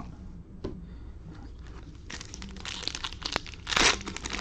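Crinkling and tearing of the plastic wrapper of a trading-card cello pack being torn open. It starts about halfway in, with a louder rip near the end.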